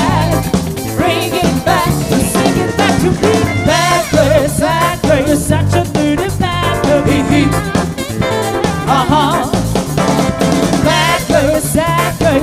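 Soul band playing: drum kit and bass keeping a steady groove under guitar, with a lead melody that wavers and bends over it.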